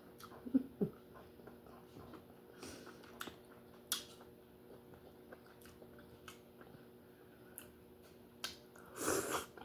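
Close-miked eating of lobster: quiet chewing with scattered small clicks and crackles of meat and shell, and a louder crackling burst near the end.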